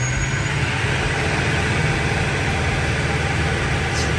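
A motor vehicle's engine running steadily, a low hum under a constant wash of road or traffic noise.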